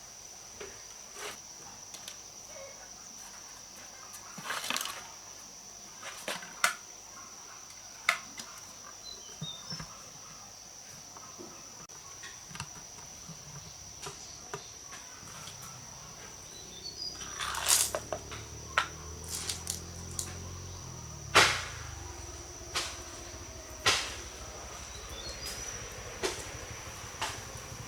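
Scattered sharp clicks and knocks, the loudest two about two-thirds of the way through, over a faint steady high whine, with a low hum coming in past the middle.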